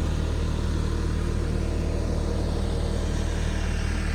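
Bobcat T650 compact track loader's diesel engine running at a steady speed: a low, even drone.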